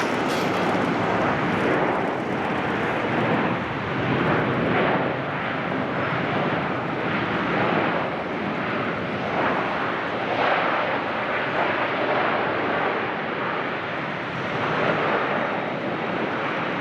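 Jet airliner's engines, a steady rushing noise that swells and eases every second or two.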